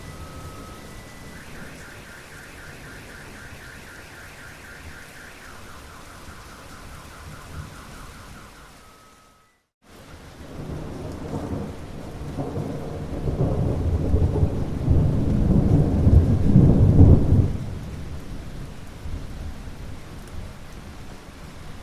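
Steady rain falling. It cuts out briefly about ten seconds in, then a long roll of thunder builds and rumbles for several seconds before fading back into the rain.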